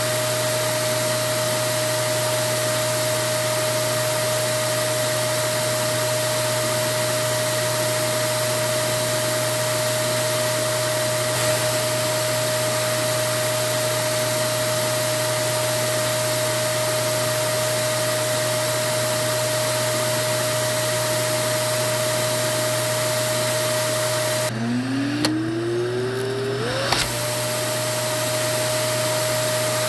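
Vacuum cleaner running steadily: an even rushing of air with a constant motor whine. About three-quarters of the way through, the rush briefly drops away and the motor winds back up with a rising whine to full speed.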